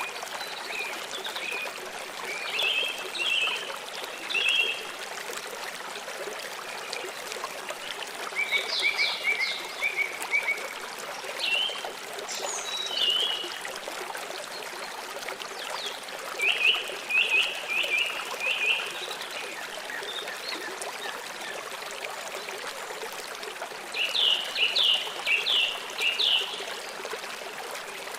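Steady flowing water, like a small stream or trickle, with birds chirping in short runs of quick repeated notes every few seconds.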